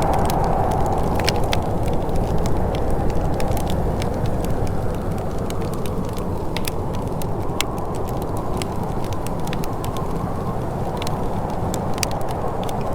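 Wood fire crackling with scattered sharp pops over a steady low rushing, with a soft whooshing that fades over the first few seconds and swells again near the end.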